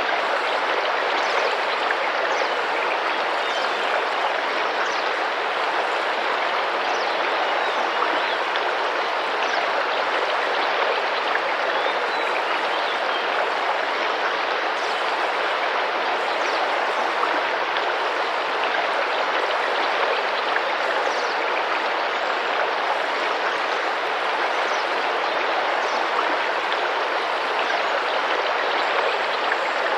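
Small tropical rainforest river running and splashing steadily over rocks, with faint, short, high bird chirps every second or two.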